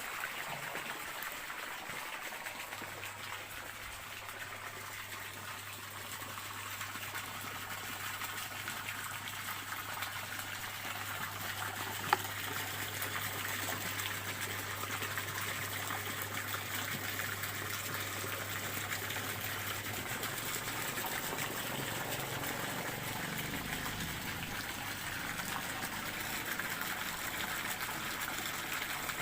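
Flowing water of a stream trickling and rushing steadily. A faint low hum runs underneath for much of it, and one sharp click stands out about twelve seconds in.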